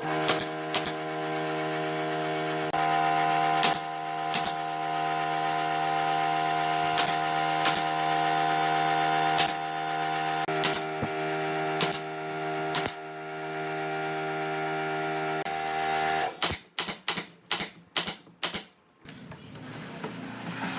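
Nail gun firing a series of sharp shots over a steady machine hum. The hum stops about 16 seconds in, followed by a quick burst of several more shots.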